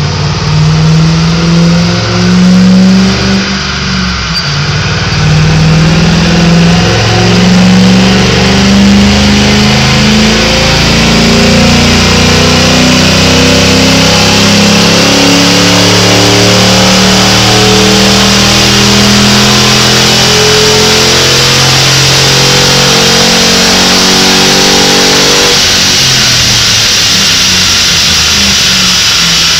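2006 Mustang GT's 4.6-litre V8 pulling hard under load on a chassis dyno through Flowmaster axle-back mufflers, its note rising steadily over a long run while a whine from the tyre and roller climbs with it. Near the end the engine drops off as the throttle is lifted, leaving the spinning tyre and roller.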